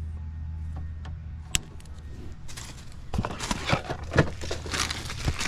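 Hands working with wiring and plastic parts: one sharp click, then about a second later a stretch of rustling, crinkling and small clicks, over a steady low hum.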